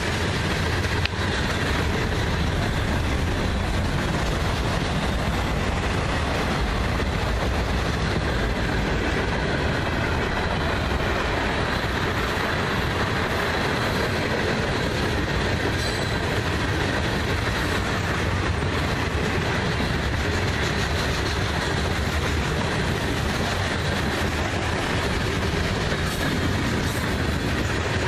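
Freight train of tank cars and covered hoppers rolling past close by: a steady rumble of steel wheels on rail with no let-up.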